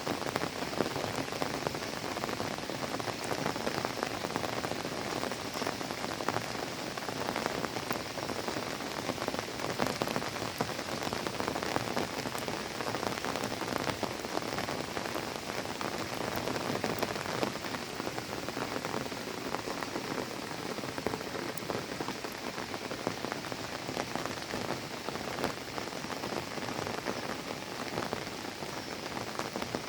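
Steady rain falling and pattering on surfaces, a dense even hiss of many small drops.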